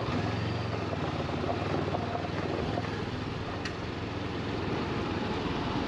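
Motorcycle engine running steadily, its firing pulses heard as an even low drone.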